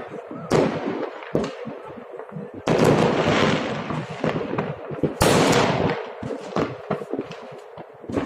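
Fireworks salute shells bursting: a series of sharp booms, the biggest about three and about five seconds in, each trailing off in a long rumble, with smaller pops in between.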